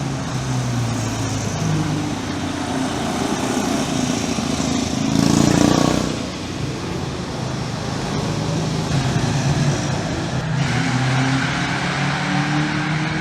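Car engines revving on a race circuit, their pitch climbing and dropping through the gears, with one car passing close and loud about five seconds in.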